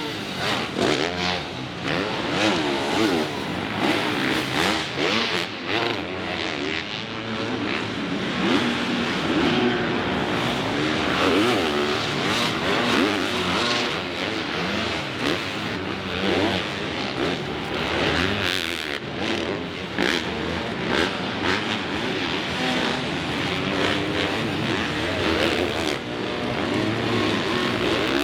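Several supercross dirt bikes running on track in practice, their engines repeatedly revving up and dropping off as the riders work the throttle.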